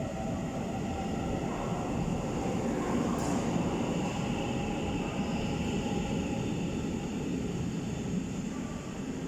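TRA EMU900 electric commuter train pulling out of the station: a steady rumble of wheels on rails with a faint rising motor whine.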